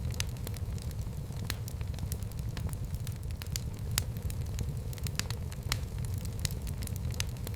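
Wood fire burning in a fireplace: a steady low rush with frequent sharp, irregular crackles and pops.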